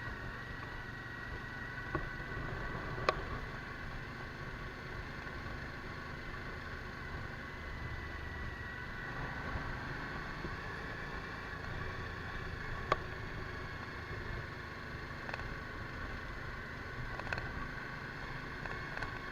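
Suzuki V-Strom DL1000's V-twin engine running at a steady speed on the move, with a low rumble of road and wind noise and a steady whine. There are a few sharp clicks, the loudest about three seconds in and another near the middle.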